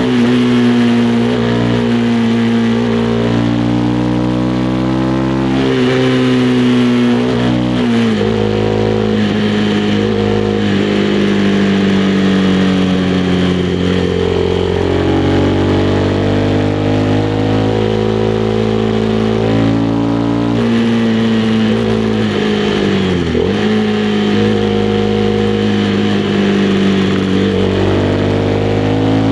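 Honda CB300R's single-cylinder engine running at road speed, its pitch holding steady for stretches, then dropping sharply twice, about eight seconds in and again near the end, and climbing again as the bike shifts gears and gets back on the throttle.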